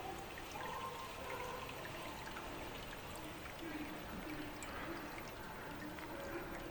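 Water trickling and running steadily, as from a small spring or stream.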